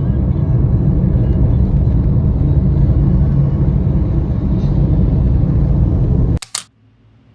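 Steady low rumble of a moving vehicle, which cuts off abruptly with a click about six and a half seconds in.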